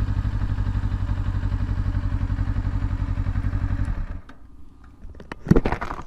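Motorcycle engine running with an even pulsing beat, cut off about four seconds in. A few clicks and a short clatter follow.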